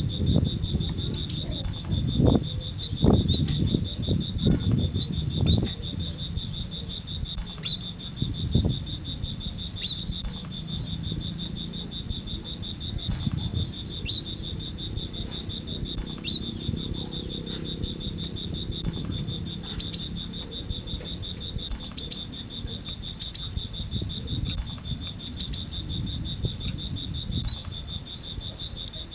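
Cinereous tit (gelatik batu) calling: short high chirps, often in quick pairs, repeated every second or two.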